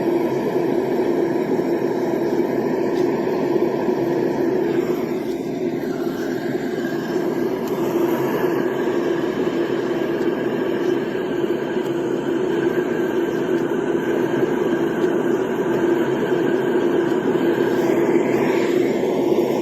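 Portable noise machine playing a steady rushing noise with a strong low hum, with faint gliding tones near the end.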